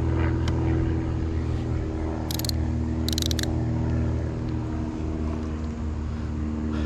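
An engine running steadily at one pitch, with a low hum. Two short high rattles cut in about two and three seconds in.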